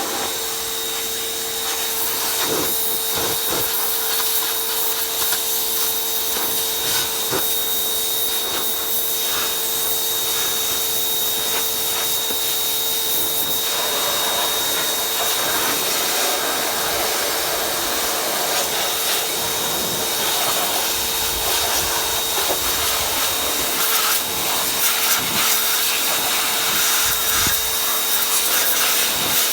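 A motor-driven machine running steadily, with a constant hum and a high whine over a hiss, such as equipment used to wash or dry a dirt bike; short knocks and rubbing sounds come and go over it.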